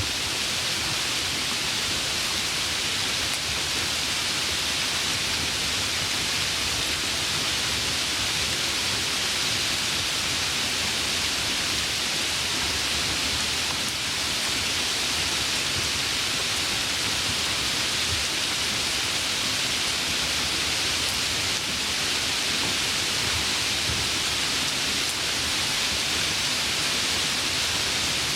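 Steady rain falling, an even hiss that is brightest in the upper range, with no thunder or separate drops standing out.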